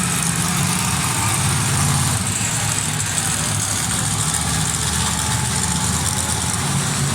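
Monster truck engine running steadily at a low, even pulse, loud and without revving up or down.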